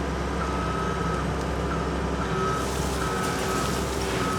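Case TR320 compact track loader's diesel engine running steadily while its backup alarm sounds a series of high beeps, starting and stopping as the machine reverses.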